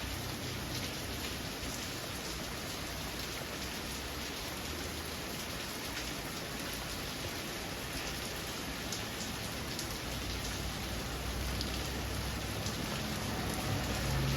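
Heavy rain pouring down steadily in a downpour, with individual drops ticking on nearby surfaces. A low rumble comes in near the end.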